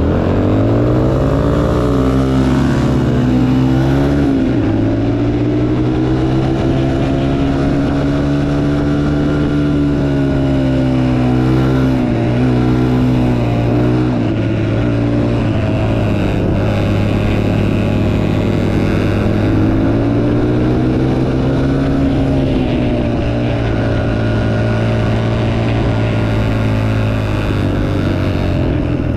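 Motocross bike engine revving up quickly, then running hard at high revs, its pitch dipping and rising now and then as the throttle changes.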